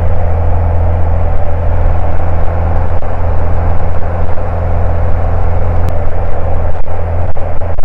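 Cessna Cardinal's single piston engine and propeller droning steadily in cruise, heard from inside the cockpit: a loud, even low hum with no change in pitch.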